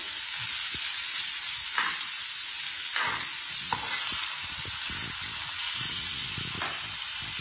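Sliced onions, tomato and chillies sizzling in oil in a frying pan, with a metal spoon scraping and knocking against the pan now and then as they are stirred.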